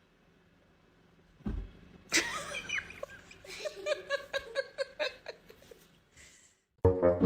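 A thump, then a person laughing in a quick run of short bursts for about three seconds. Brass music starts near the end.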